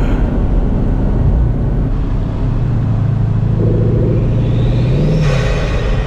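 Bugatti Mistral's 8.0-litre quad-turbo W16 engine running steadily on the move, with road noise. Its pitch swells briefly near the end.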